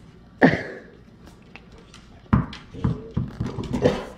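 Dogs vocalizing in short outbursts: a sharp falling yelp about half a second in, then a run of short growls and grumbles near the end, as one dog snaps at the other.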